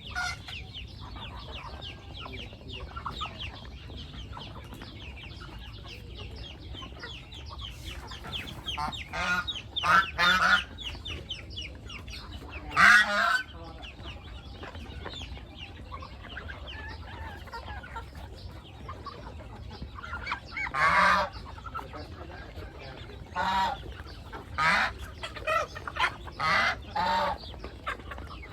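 Chickens clucking: a steady chatter of short clucks, with several louder calls standing out midway and a quick run of them near the end.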